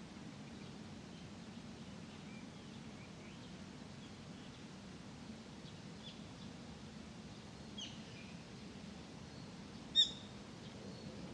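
Small birds chirping now and then over a steady low background hum, with one short, sharp bird call standing out loudest about ten seconds in.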